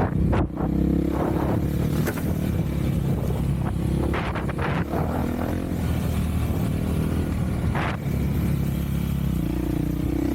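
Off-road vehicle engine (ATV or dirt bike) running as it rides, its pitch rising and falling with the throttle, with a few brief rushing bursts along the way.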